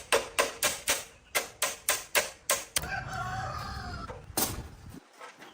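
Rapid, evenly spaced knocking, about four strikes a second, which stops just under three seconds in. A rooster then crows once for about a second and a half, and a single knock follows.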